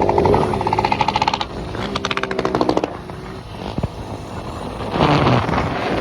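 Small motorcycle engine revved hard, twice breaking into a rapid, even stutter of about a second each, then dropping back.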